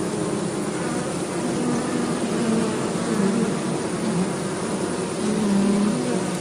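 Stingless bees buzzing close by, a steady hum that wavers in pitch and grows louder about five seconds in.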